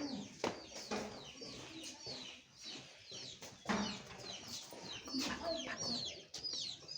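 Birds chirping in many short, high chirps that fall in pitch, coming quickly one after another, with some lower clucking and a few sharp knocks.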